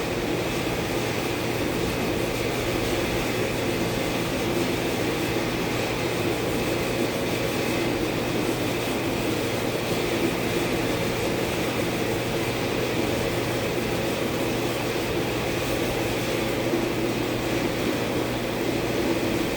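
Steady mechanical drone with a constant low hum, even in level throughout, like ventilation or a machine running in the shop.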